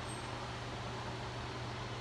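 Steady low hum with an even hiss behind it, unchanging throughout: a constant background machine or fan noise.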